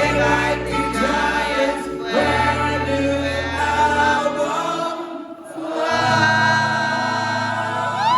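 Rock band's voices singing a slow, choir-like anthem in harmony over sustained bass and keyboard chords that change every couple of seconds. Near the end a voice swoops up into a long held note.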